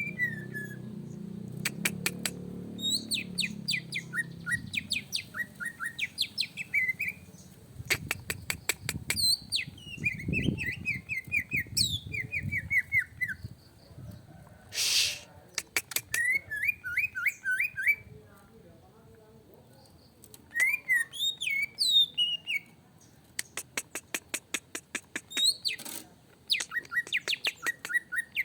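Cucak ijo (green leafbird) singing in a fired-up, aggressive way: fast runs of sharp chirped and falling notes, broken by rapid clicking rattles. A low hum sits under the first few seconds.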